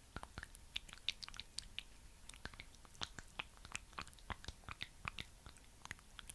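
Close-up sticky clicking and crackling of thick skincare product being worked near the microphone: many quick, irregular wet clicks.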